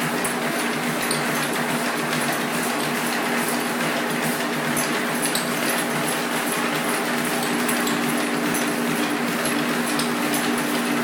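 Treadmill running steadily with a dog moving on the belt: a constant motor hum over belt noise, with faint irregular ticks.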